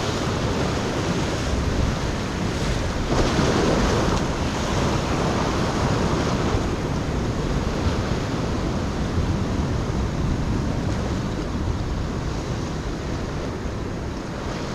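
Ocean surf breaking and washing, swelling loudest about three to four seconds in, with wind on the microphone.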